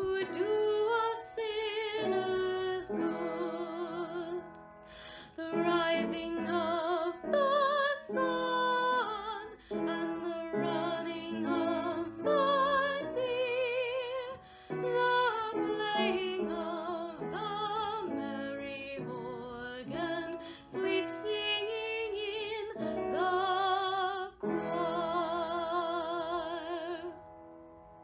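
Female singing of a Christmas carol, the sustained notes wavering with vibrato, ending on a long held note a few seconds before the end.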